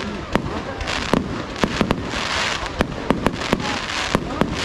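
Fireworks display: a rapid series of sharp bangs, several a second, over a continuous crackling hiss.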